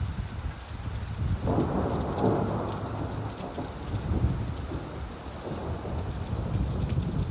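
Steady rainfall with a low roll of thunder. The thunder swells about a second and a half in and slowly fades.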